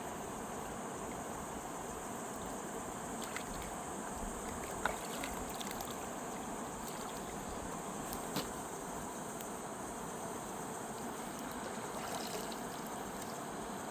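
Mountain river rushing steadily over rocks, with a couple of brief clicks about five and eight and a half seconds in.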